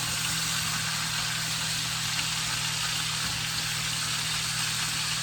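Chicken thighs frying in a pan, a steady sizzling hiss over a constant low hum.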